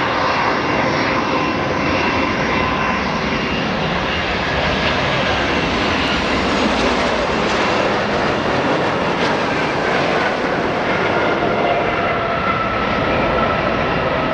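Boeing 737-800's CFM56-7B jet engines running loudly and steadily: a rushing roar with a few steady whining tones over it.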